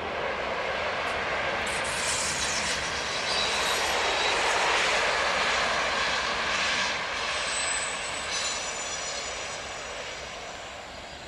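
EP07 electric locomotive hauling an Intercity passenger train past: a rushing noise that builds for about four seconds and then slowly fades, with thin high-pitched squeals in the second half.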